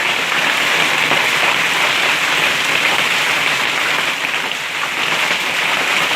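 Hail and rain pelting down on a hard surface in a dense, steady patter.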